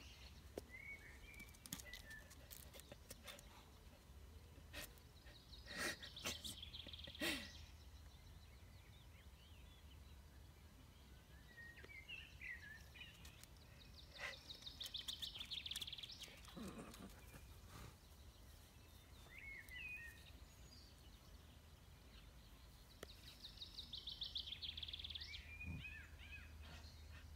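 Quiet outdoor ambience with birds chirping in the background and two fast trills from a songbird, over a faint low hum. Two brief sharp sounds stand out about six and seven seconds in.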